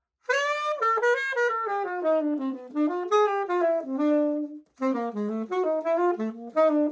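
Unaccompanied saxophone playing a fast bebop line, a run of quick notes that pauses briefly about four and a half seconds in before a second phrase.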